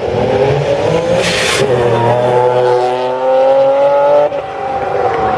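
Turbocharged Infiniti G35's V6 engine being revved through its exhaust: the note climbs and is held high, then cuts off sharply near the end as the throttle is released. A brief hiss comes about a second in.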